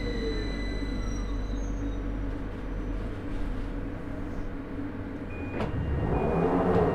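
London Underground 2009 Stock train heard from on board as it slows into a station: a steady low rumble with the falling motor whine fading out just after the start. Near the end come two sharp clicks and a short beep repeated a few times, with a swell of noise as the train comes to a stand.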